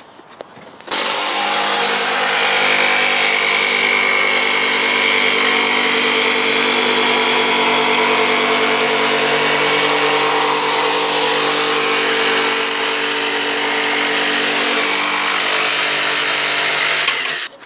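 Electric power tool running steadily under load, cutting wood for the owl box, switched on about a second in and off near the end.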